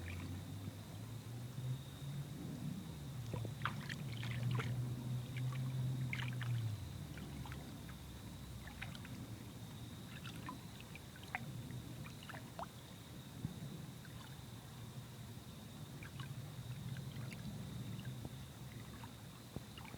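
Crickets chirping in a steady, high-pitched chorus, with scattered faint clicks and rustles. A low steady hum lies under it for about the first seven seconds, then fades.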